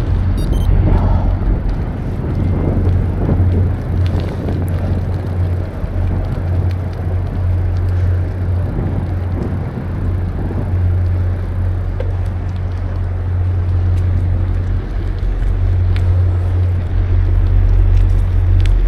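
Wind buffeting a camera microphone on a moving bicycle: a steady, loud low rumble with a haze of road and tyre noise.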